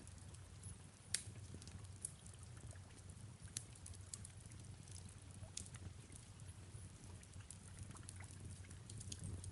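Faint fireplace ambience: a wood fire crackling with scattered sharp pops, the loudest about a second in, over a low steady rumble and soft rain.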